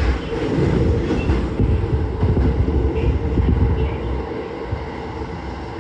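Toei 10-300 series electric train running at speed: steady rumble of the wheels on the rails, with a constant hum, easing somewhat in loudness about four seconds in.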